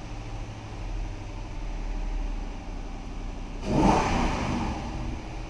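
Toyota 4.7-litre V8 (2UZ-FE) idling steadily, then revved once briefly about two-thirds of the way through, settling back to idle.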